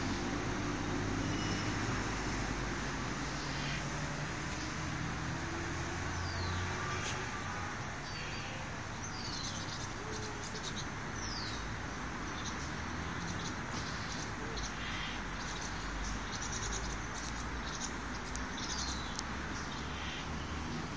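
Birds chirping: short, high, falling calls and quick clicking notes, scattered through the middle and later part, over a steady low background hum that is stronger in the first few seconds.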